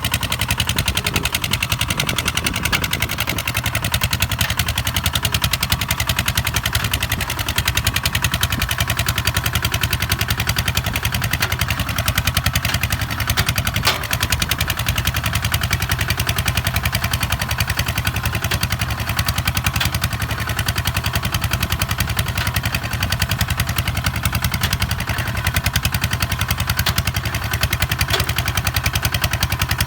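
Kubota ZT 155 DI single-cylinder diesel engine on a two-wheel tractor, running steadily under load while plowing, with rapid, even firing pulses.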